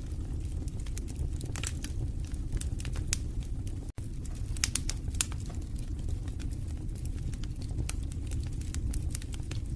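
Wood fire in a fireplace crackling: scattered sharp pops and snaps over a steady low rumble of the flames. The sound cuts out for a split second about four seconds in.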